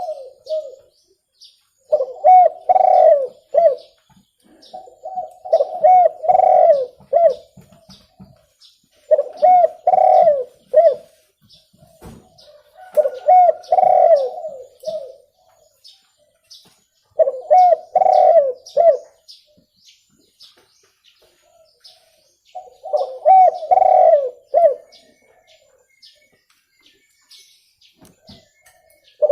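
Spotted dove cooing: a phrase of several low coos repeated about every four seconds, seven phrases in all. Faint high chirps of small birds sound throughout.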